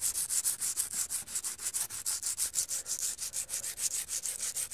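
120-grit sandpaper rubbed by hand over the edge of an aluminium alloy wheel in quick back-and-forth strokes, about six or seven a second. It is a first rough pass, scuffing off leftover paint and lacquer and keying the surface for filler and primer.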